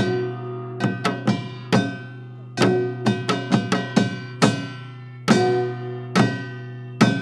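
Live instrumental music with drums and plucked strings, played in a steady rhythm of sharp struck chords and no singing.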